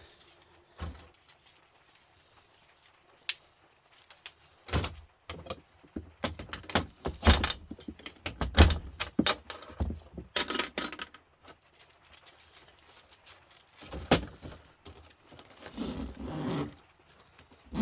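Metal scrap being worked by hand: a copper-and-aluminium radiator coil being pulled apart, with irregular metallic clinks, rattles, knocks and short scrapes. The handling is busiest in the middle of the stretch and again near the end, with quiet pauses between.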